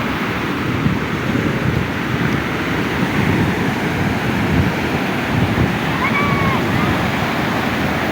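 Surf washing on a beach, a steady rushing noise, with wind buffeting the microphone. A faint short cry, likely a distant voice, is heard about six seconds in.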